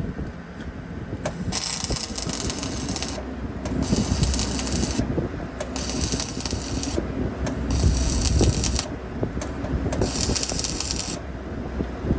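Five short bursts of wire-feed welding, each about a second long with brief pauses between, crackling and hissing over a low background rumble.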